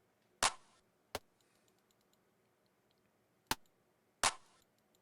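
Four short, irregularly spaced clicks of a computer's input controls being operated, against a quiet room.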